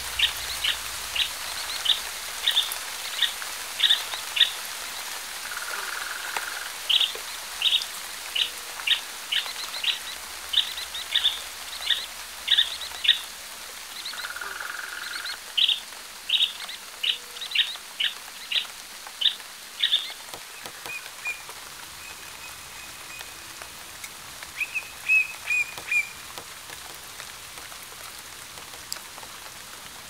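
Forest bird calling in a long series of short, sharp high chirps, about two a second, with a lower buzzy note twice; the chirps stop about twenty seconds in and a few brief whistled notes follow. A steady hiss of light rain runs underneath.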